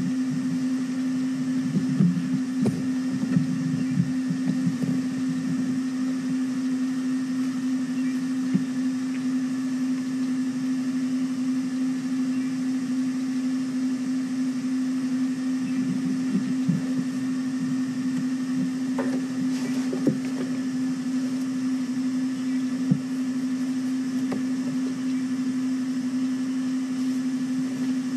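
Steady mechanical hum at one pitch, with soft scattered crackling and rustling that comes and goes, busiest a few seconds in and again past the middle.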